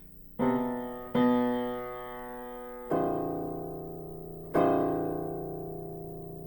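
Lowest bass key (A0) of an Aldrich spinet piano struck four times, each note ringing and slowly dying away, while its pitch is checked against a tuning app: the string sounds flat.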